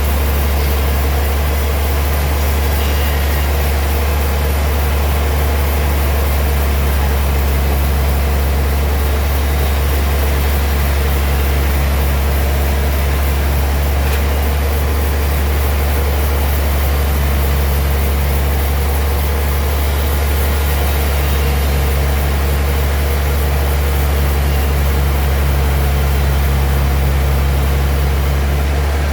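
Sawmill machinery running with a steady, loud low hum that does not change.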